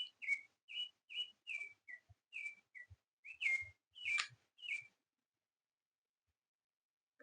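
A run of short whistled chirps, about two a second, each sliding down in pitch; they stop about five seconds in.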